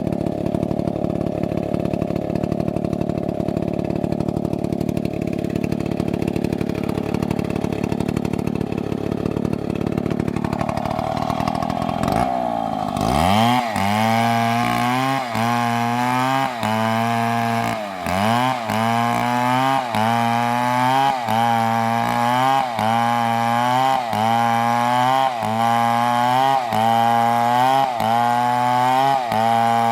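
Two-stroke chainsaw running steadily at a low speed, then revving up about twelve seconds in. From there its pitch dips and recovers in a regular cycle about once a second until the end.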